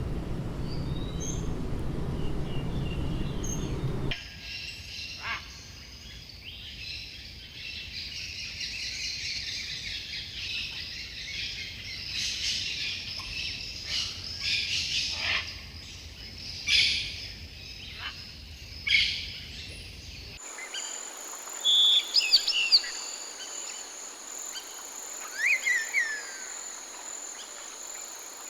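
Wild birds calling and singing: a dense chorus of high chirps, with sharp downward-sweeping calls. For about the first four seconds a low rumble runs underneath. From about two-thirds of the way through, a steady high insect drone goes on behind scattered chirps and sliding calls.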